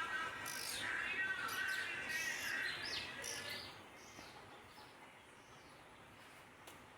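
Indian ringneck parakeet giving a quick string of short, high chirps and squawks in roughly the first three seconds, over background music that fades out; after that only faint background remains.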